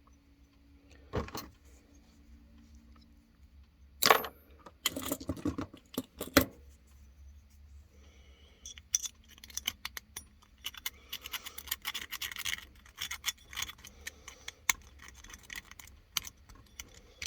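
Small metal parts and tools being handled on a workbench: a few sharp knocks in the first half, then a long run of light metallic clinking and scraping.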